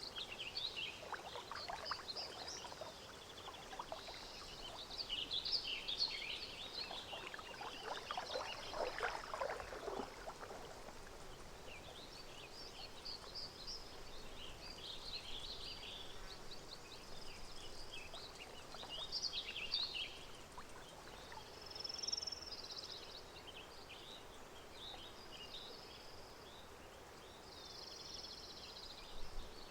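Lakeside park ambience: many small birds chirping and calling over one another, with gentle water sounds beneath and a busier patch about eight seconds in.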